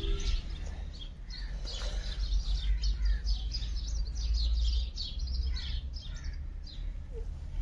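Birds chirping: many short, high calls in quick succession, thinning out over the last second or so, over a steady low rumble.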